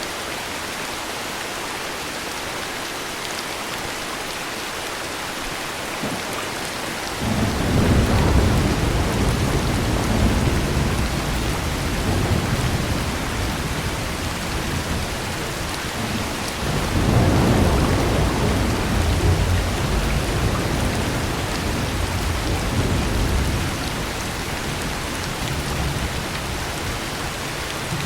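Steady heavy rain with two long rolls of thunder. The first breaks in suddenly about a quarter of the way through, and the second follows a little past halfway, each rumbling for several seconds before fading back under the rain.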